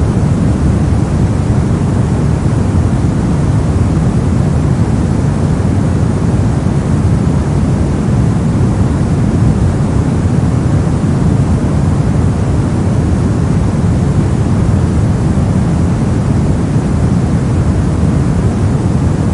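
Steady soft noise for sleep and study, a continuous even hiss weighted to the deep low end, like brown or pink noise. It does not change.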